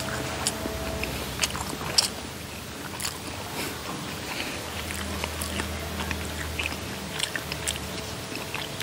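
A person chewing a mouthful of soft Thai sago dumplings close to the microphone, with many small, irregular mouth clicks.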